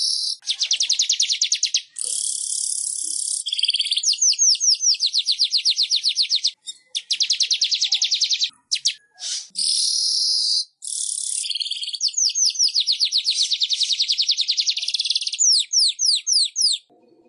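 Manyar (weaver bird) song: fast, buzzy chattering and trills made of rapid runs of repeated notes, broken by short pauses. It ends in a handful of separate downward-sweeping notes.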